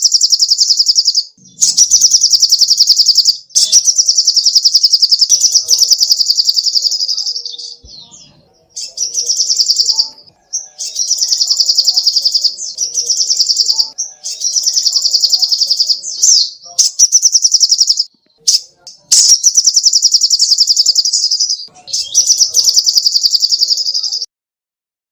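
Sogok ontong (little spiderhunter) singing: a string of rapid, high-pitched trilled phrases, each lasting one to two seconds with short gaps between them, stopping about a second before the end.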